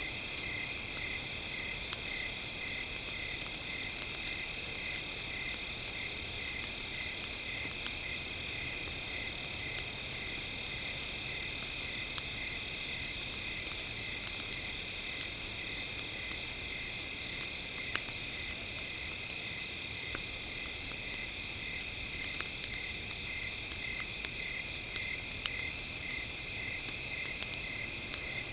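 Steady, high electronic tones, one pulsing about twice a second in a cricket-like way, layered over the faint crackle of a campfire.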